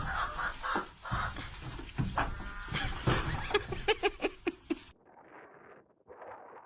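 Chicken clucking, ending in a quick run of short, sharp clucks; it stops abruptly about five seconds in, and fainter, duller sounds follow.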